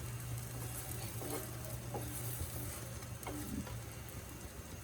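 Cheese-filled flatbread dough frying in oil and ghee in a pan, sizzling steadily as it starts to puff up, over a constant low hum.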